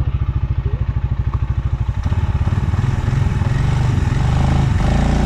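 Stels Leopard 650 quad bike engine running at low revs under load, a steady rapid pulsing that picks up in revs and loudness near the end.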